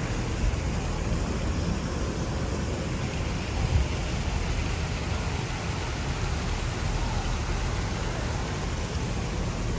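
Steady rushing background noise with no clear pitch, with one short low thump about four seconds in.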